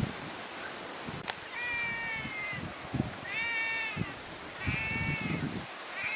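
An animal calling three times, each call under a second and slightly falling in pitch, with a sharp click and a few dull knocks between the calls.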